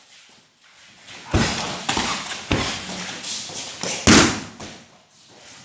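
A run of hard thuds and slaps from pencak silat kicks and strikes landing with power, about four loud impacts with smaller ones between, the loudest a little after the middle.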